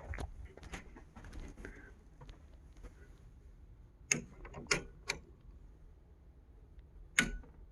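A few sharp plastic clicks from a circuit breaker toggle being worked to reset a tripped breaker: three quick clicks about four seconds in, and a louder snap near the end.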